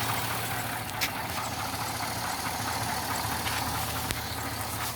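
2005 GMC Sierra pickup's engine idling steadily with its air-conditioning belt off, with a single click about a second in.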